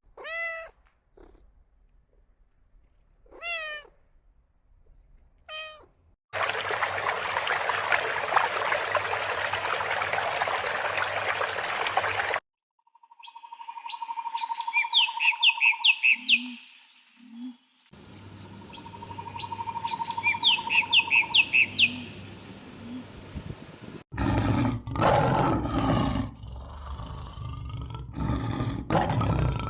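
A run of different animal calls, one after another: short rising-and-falling cries, a steady hissing stretch, rapid chirps over a steady tone, then louder rough calls near the end.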